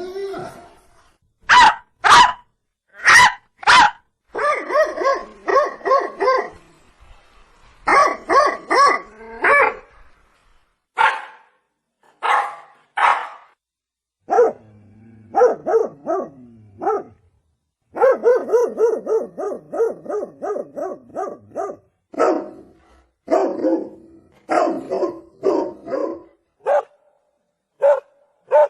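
Dogs barking: single sharp barks and quick runs of several barks in a row, in separate groups with short silent gaps between them.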